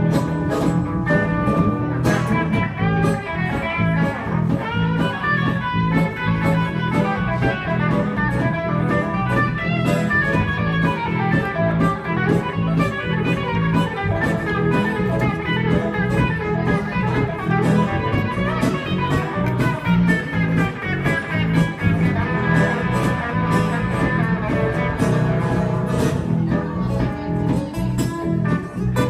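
Live blues music: a guitar-led instrumental break with no singing.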